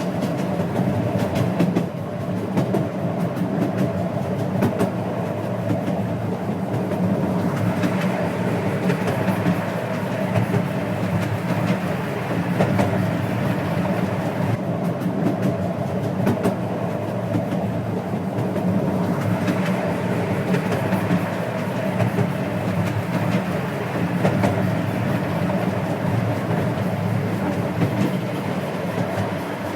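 12-inch gauge miniature steam train running along the track: a steady rumble of wheels on rail with frequent sharp clicks over the rail joints, the upper hiss growing and fading a few times.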